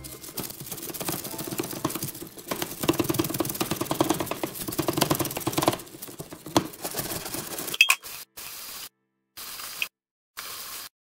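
Stiff-bristled scrub brush scrubbing hard around the drain of a stainless steel sink: a rapid, rasping scrape of bristles on metal. It goes quieter after about six seconds, broken by several sudden silences near the end.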